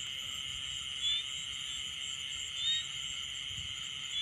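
Steady insect chorus, a continuous high drone, with a short high chirp repeating about every second and a half.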